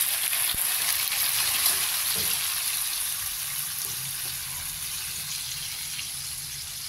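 Chicken, chicken liver and gizzard pieces sizzling in sauce in a wok, a steady hiss that slowly fades.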